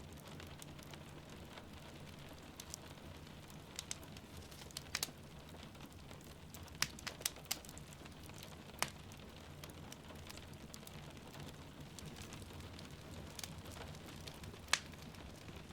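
Wood fire crackling in a fireplace, with scattered sharp pops, a cluster about halfway through and a loud one near the end, over a steady hiss of rain falling outside.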